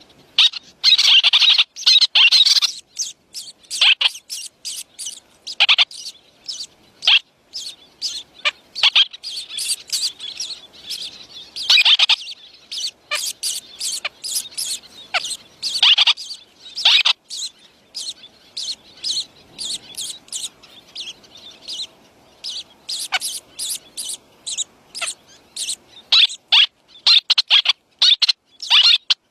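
Birds chirping: quick runs of short, high chirps, some overlapping, with brief pauses between.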